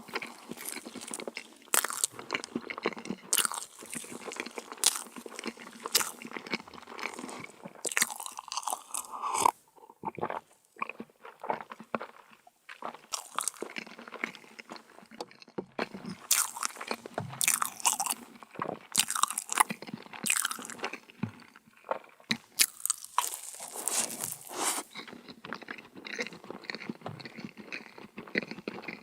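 Close-miked eating of crunchy meringue cookies: repeated sharp crunches as they are bitten and chewed, irregular and uneven, with a short quieter pause about a third of the way in.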